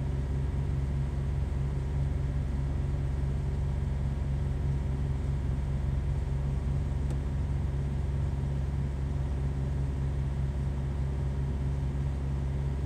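Steady low hum of room background noise, unchanging, with no distinct taps or strokes.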